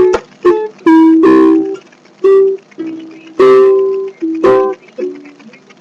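Ukulele strummed in a rhythmic chord pattern, playing the E minor, C and G progression. Strong strokes come about twice a second, with lighter strums between them.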